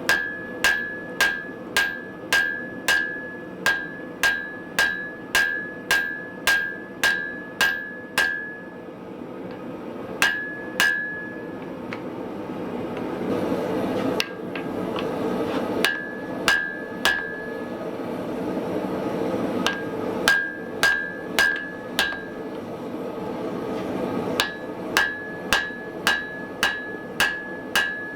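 Hammer blows on an anvil while forging hot wrought iron: runs of evenly paced strikes, about two a second, each with a short ring, broken by several pauses. A steady rushing noise runs underneath and grows louder in the longest pause.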